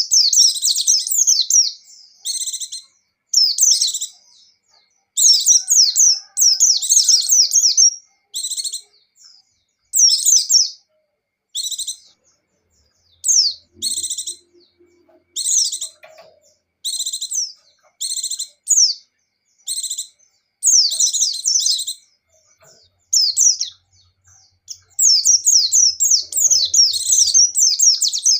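Pleci (white-eye, Buxtoni type) singing energetically: high, rapid twittering phrases in bursts of a second or two with short pauses between them. Longer runs of continuous trilling, the 'ngecir' song, come a few seconds in and again near the end.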